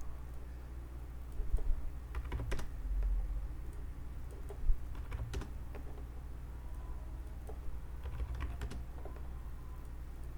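Computer keyboard typing and clicking in short scattered bursts, the sound of someone working at a computer, over a steady low hum.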